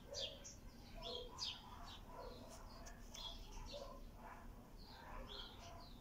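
Faint chirping of small birds: a scattered run of short, high, downward-sweeping chirps.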